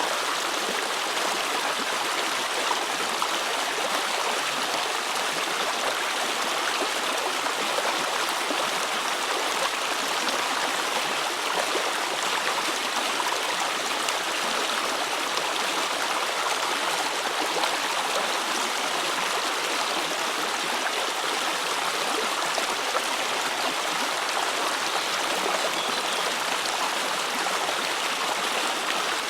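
River water running steadily, a constant rushing with no breaks.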